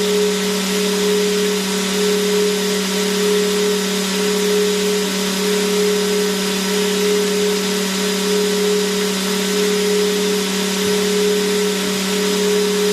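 Vacuum cleaner motor running continuously and unchanging: a steady low hum under an even rush of air.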